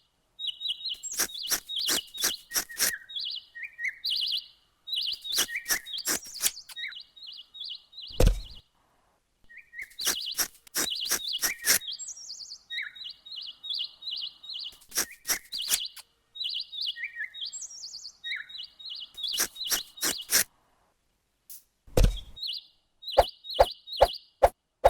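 Birds chirping in quick repeated phrases, mixed with runs of sharp rapid clicks and two heavy thumps, about eight seconds in and near the end. The sound cuts out abruptly several times.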